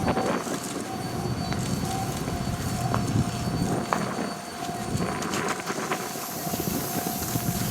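A 700 Series Shinkansen train rolling slowly on rails: a steady low rumble with scattered clicks. A steady high tone runs over it throughout.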